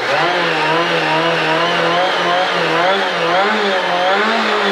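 Rally car engine heard from inside the cabin, held at high revs on the start line, its pitch wavering up and down steadily as the throttle is worked before the launch.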